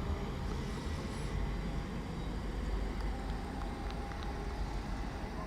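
A TfL Rail Class 345 electric train pulling out of the platform: a steady low rumble with a faint hum.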